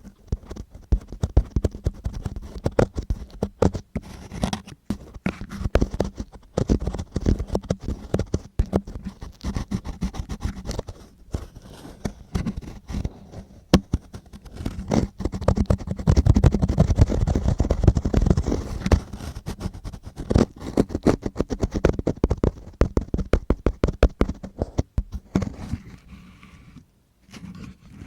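Close-up ASMR ear-cleaning sounds: a tool scratching and scraping right against the microphone, with dense, irregular crackly strokes. They grow louder and thicker about two-thirds of the way through, then thin out near the end.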